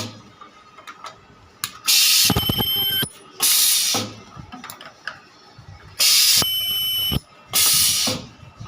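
Ultrasonic plastic welding machine running two weld cycles about four seconds apart. Each cycle is a cluster of loud, half-second hissing bursts with a thin high tone through them.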